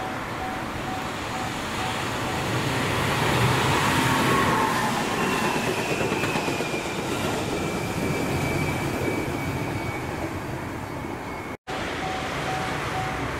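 Electric commuter trains running past close by, a swelling rumble of wheels on the rails with a thin whine that slides slowly down in pitch. A level-crossing bell dings steadily near the start and again near the end. The sound drops out for an instant shortly before the end.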